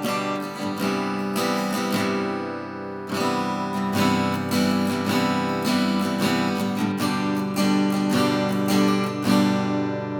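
Vintage 1970s S.Yairi YD-303 acoustic guitar strummed chord after chord, the last chord left ringing out near the end.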